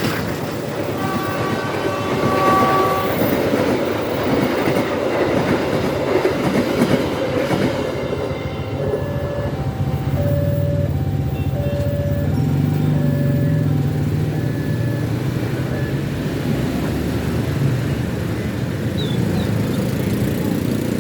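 A train passes over the level crossing, its wheels clacking on the rail joints, with a horn-like tone sounding about one to three seconds in. From about nine seconds in, the crossing's warning alarm sounds a repeating two-tone signal over a low, steady rumble.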